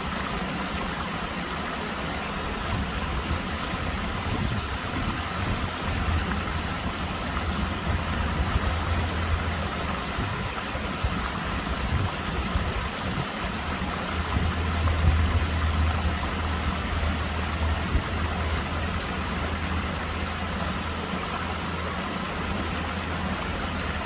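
Mill stream flowing over stones: a steady rush of water with a deep rumble underneath that swells at times.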